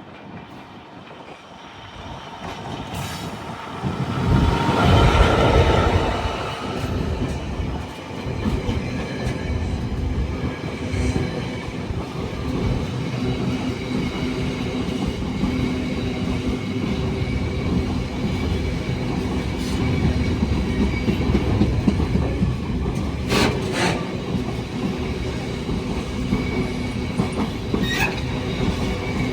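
A train running through the station, growing louder over the first few seconds and then rumbling steadily past, with wheel noise on the rails and a couple of sharp clicks near the end.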